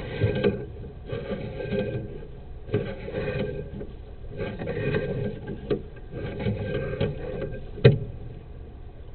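Sewer inspection camera rig working as its push cable is fed into the line: uneven clattering and scraping, with a few sharp knocks, the loudest near the end.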